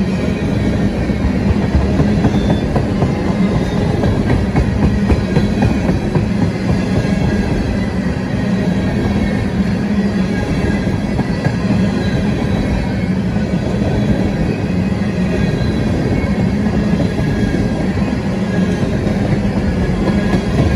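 Freight train tank cars rolling past fast: the steady noise of steel wheels running on the rails, with a low hum throughout.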